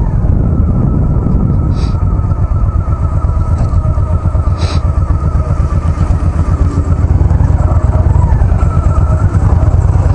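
Honda Shadow V-twin motorcycle engine running at low speed, a steady low pulsing beat, while the bike rolls slowly across a parking lot to find a spot. Two brief crackles about 2 and 5 seconds in.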